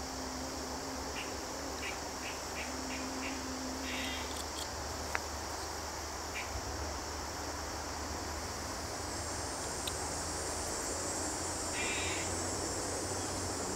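Steady high-pitched chorus of crickets and other insects, growing louder in the second half, with short repeated chirps over it and a single sharp click about five seconds in.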